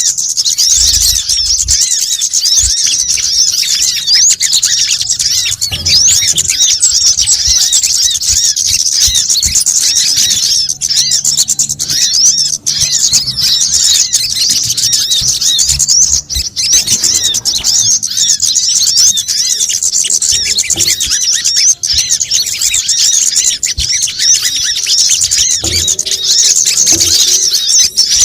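Dense, continuous twittering of many small birds, with a crowded chorus of quick, high chirps overlapping without a break. It is a mixed bird-lure recording of sunbirds and similar small songbirds, played to attract them.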